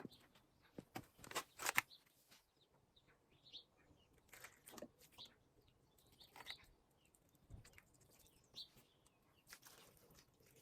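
Faint rustling and crunching handling noises, a short cluster of them loudest about two seconds in, with small birds chirping now and then.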